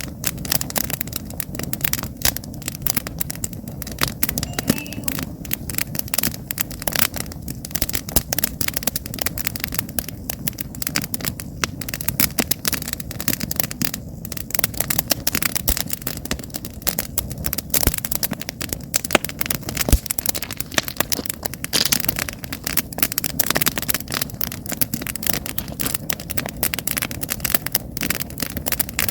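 Wood campfire burning, with constant irregular crackling and popping from the logs over a steady low rumble of the flames.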